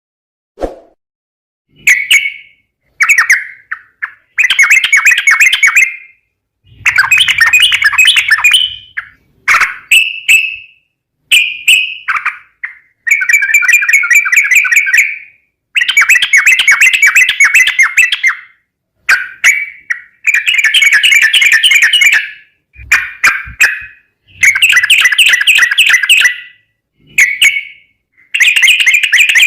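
Yellow-vented bulbul (trucukan) singing loudly: a string of song phrases, each half a second to three seconds long, separated by short pauses.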